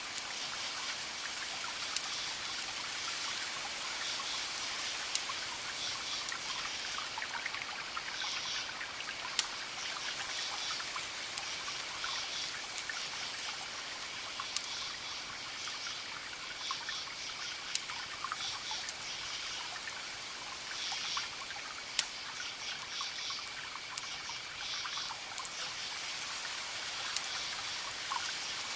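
Campfire crackling with scattered sharp pops, over crickets chirping in short pulsed bursts and a steady high insect trill.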